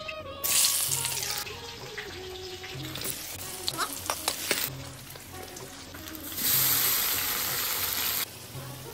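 Food frying in hot oil in a large iron wok, sizzling loudly in two bursts, about half a second in and again from about six and a half seconds, as ingredients go into the pan; the second burst comes as chopped tomatoes are added. In between, a metal spatula scrapes and clicks against the wok as it is stirred.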